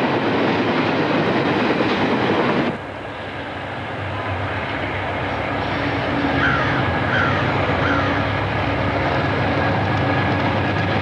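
Train rolling past with a dense rumble. About two and a half seconds in, this cuts off abruptly to a steadier, lower rumble of a diesel locomotive, with a few faint short squeaks in the middle.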